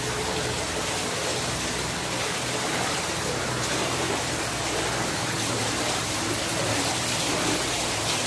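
Steady rush of water echoing in a flooded mine tunnel, without breaks or separate splashes.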